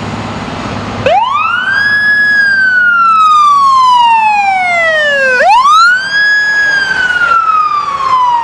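Emergency vehicle siren wailing: twice the pitch climbs quickly and then falls slowly over a few seconds, over the low rumble of the vehicle's engine.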